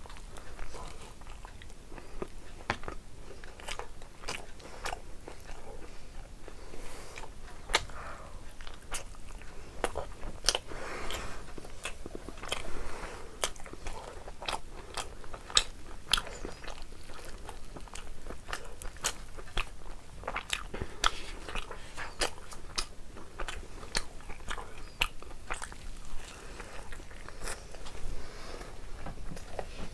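Close-miked eating sounds: a person chewing mouthfuls of rice pulao and naan, with frequent sharp wet smacks and clicks of the mouth throughout.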